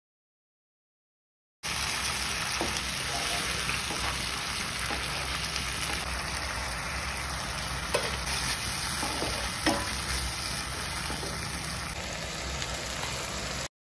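Tomato puree sizzling over fried onions in a nonstick kadai while a spatula stirs it, with a few light knocks of the spatula against the pan. The sound starts suddenly about a second and a half in and stops abruptly just before the end.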